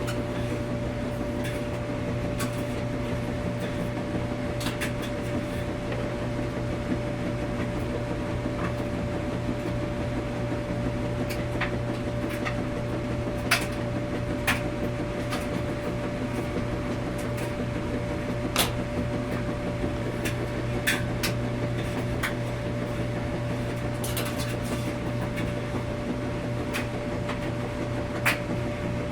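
Washing machine running with a steady hum, and a few short clicks or knocks now and then.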